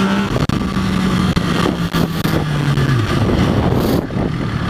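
Motorcycle engine running as the bike is ridden, its pitch stepping down after about a second and sliding lower about three seconds in as the engine speed falls.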